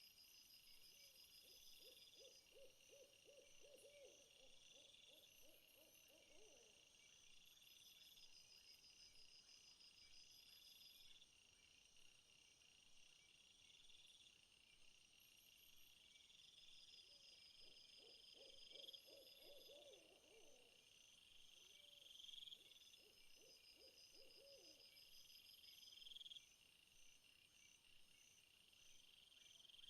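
Faint chorus of insects such as crickets, with steady pulsing trills and a rising chirp repeated every couple of seconds. Twice, a lower, rapidly pulsed animal call sounds for several seconds, about a second in and again about seventeen seconds in.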